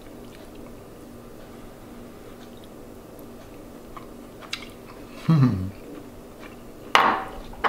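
A man chewing a mouthful of fusilli pasta, with a short, low, falling "mmm" of the voice about five seconds in and a sharp knock near the end.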